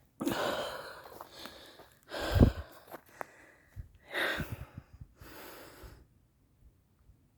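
A man breathing heavily into the microphone, about four loud breaths a second or two apart: he is out of breath from climbing a steep hill.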